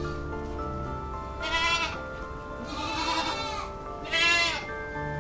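Background music with steady held notes, over which a farm animal bleats three times in short, quavering calls.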